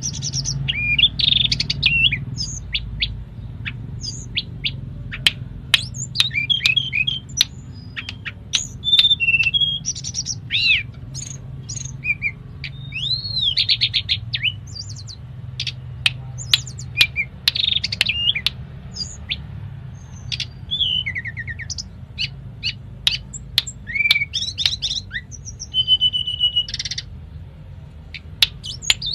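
Tledekan gunung songbird singing a continuous, varied song of whistled notes, pitch slides and sharp chips, with phrases borrowed from other birds' songs. A low steady hum runs underneath.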